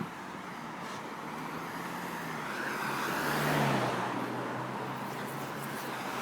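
Road traffic: a car passes close by. Its tyre and engine noise swells to a peak about three and a half seconds in and then fades, the engine note dropping in pitch as it goes past.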